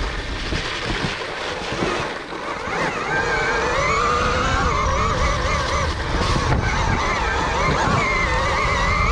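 Electric motor and drivetrain of a 2021 KTM Freeride E-XC electric dirt bike whining under way, its pitch rising and falling with the throttle. Wind rumbles on the microphone underneath.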